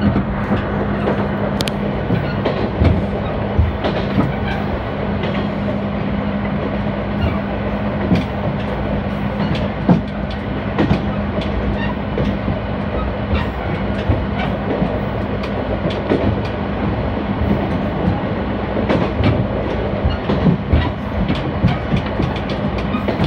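Diesel railcar running along the line: a steady engine drone under wheel and track noise, with repeated clicks and clacks from the wheels over the rails that come more often toward the end.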